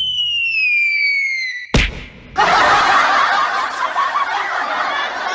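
Cartoon sound effects: a whistle sliding downward in pitch, ending in a sharp bang, followed by a burst of laughter.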